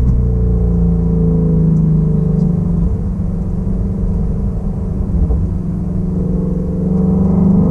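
2016 Shelby Mustang GT350's 5.2-litre flat-plane-crank V8 and exhaust pulling at light throttle, the note easing off about three seconds in and building again near the end.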